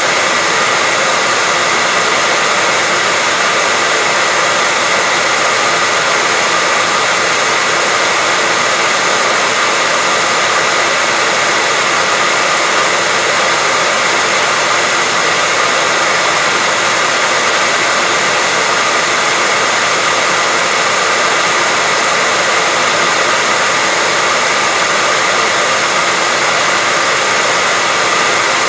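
Hair dryer running steadily: a constant blowing hiss with a faint steady whine, unchanging throughout.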